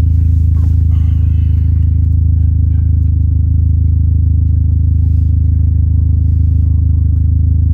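Dodge SRT-4's turbocharged 2.4-litre four-cylinder engine running at a steady, even speed, heard from inside the cabin as a constant low drone.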